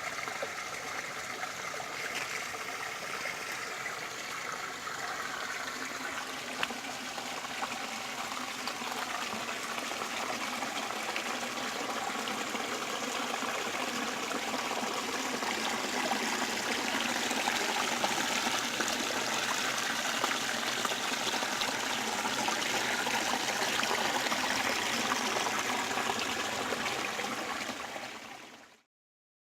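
Small waterfall on a stream, water running and splashing steadily, growing a little louder about halfway through and then fading out abruptly near the end.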